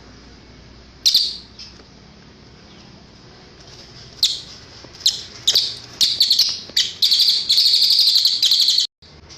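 Cililin bird singing high-pitched chirps: one call, then a run of separate notes that speeds up into a fast, dense trill that cuts off abruptly near the end.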